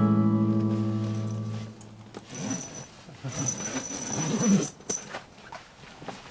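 An acoustic guitar chord rings out and fades away over the first two seconds. Then a dog makes low, wavering vocal sounds for about two seconds.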